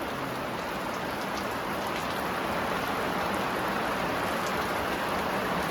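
Steady rain falling, an even hiss of drops at a constant level.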